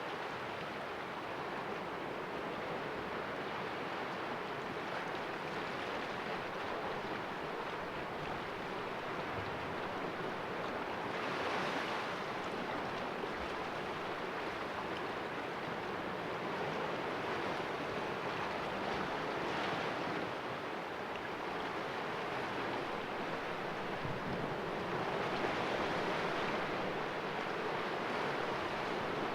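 Sea waves washing against the rocks of a small cove, a continuous wash with a few stronger surges, one about a third of the way in, another around two-thirds and a longer one near the end.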